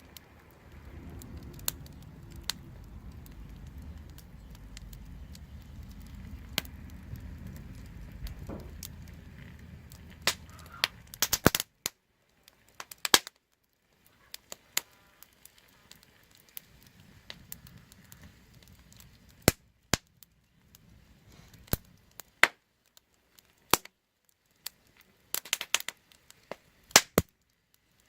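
Wood fire crackling: sharp pops and snaps of burning wood at irregular intervals, some in quick clusters. A low rumble runs under the pops for the first eleven seconds or so, then stops.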